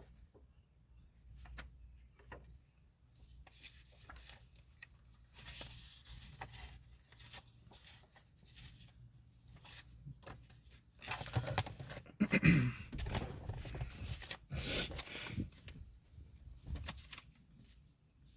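Tarot cards being handled: scattered light rustles and clicks, with a louder stretch of card rustling about 11 to 13 seconds in and another near 15 seconds.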